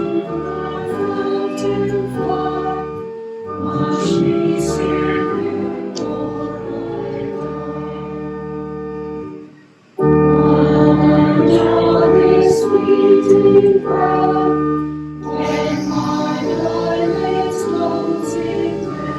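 Choral music with keyboard accompaniment, held chords moving from one to the next; it breaks off briefly about ten seconds in and comes back louder.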